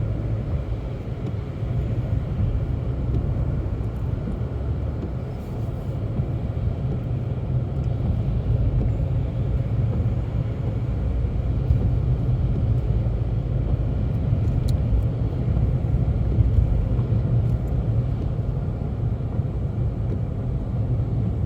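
Steady low rumble of a car driving, heard from inside the cabin: engine and tyre noise holding even.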